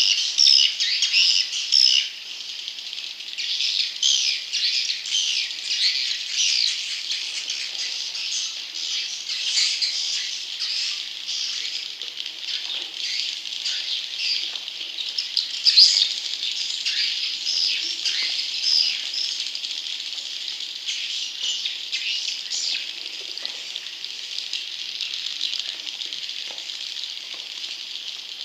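Recorded calls of swiftlet chicks: a dense, continuous chatter of high chirps and rattling twitters. It is louder for the first couple of seconds, then steady. It is a lure call played to draw young wild swiftlets to a nest house.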